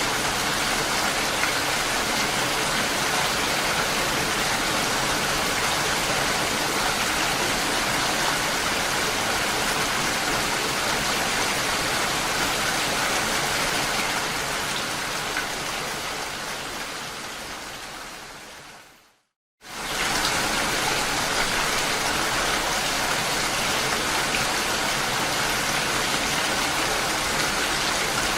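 Steady, even rain falling. About two-thirds of the way through it fades away over several seconds into a brief gap of silence, then returns abruptly at full level, as at the seam of a looped recording.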